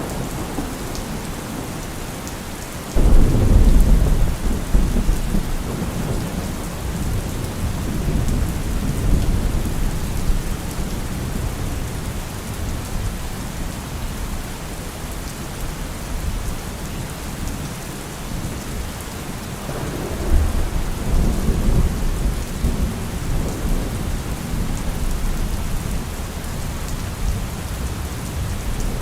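Heavy rain falling steadily, with a deep rumble that starts abruptly about three seconds in and fades over several seconds, and a second, weaker rumble around twenty seconds in.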